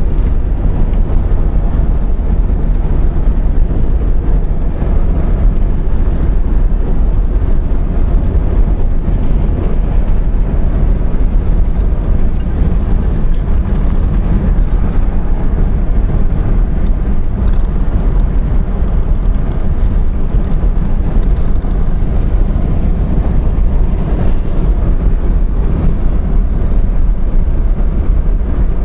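Steady road and engine noise from a car driving along, mostly a low rumble, with some wind on the microphone.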